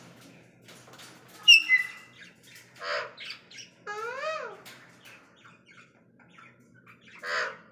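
Cockatiels calling: a loud, sharp chirp about one and a half seconds in, harsh squawks around three seconds and again near the end, and a rising-then-falling whistle at about four seconds.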